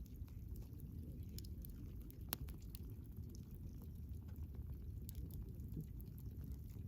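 Wood fire burning: a steady low rumble of flames with sporadic sharp crackles and pops from the burning wood, one louder pop a little after two seconds in.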